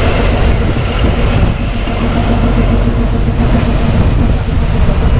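Kalka–Shimla narrow-gauge toy train running along the track, heard from on board: a steady, loud rumble of wheels and carriage with a faint continuous hum.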